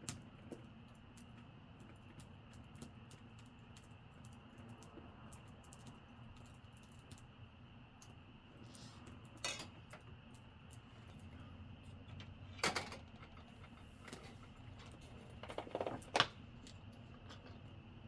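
Campfire crackling: scattered small, sharp pops and snaps over a low steady hum, with a few louder knocks in the second half.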